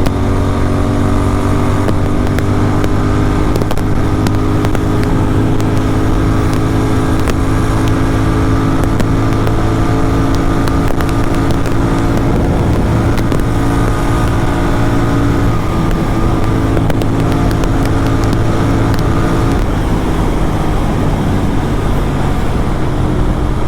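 Superbike engine with a full-system aftermarket exhaust droning steadily at cruising speed, its pitch drifting a little as the throttle changes.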